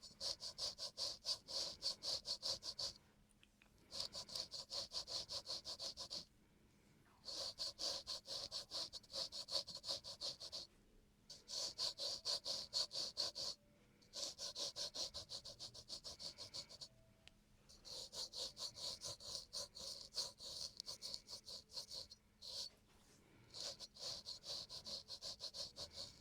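Razor scraping across a man's facial skin in quick, short strokes, in runs of two to four seconds with brief pauses between them.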